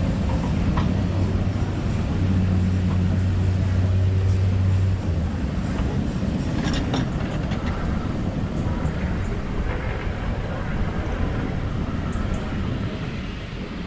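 Train sounds: a steady low hum for about the first five seconds, then an even rumbling noise with a few faint clicks.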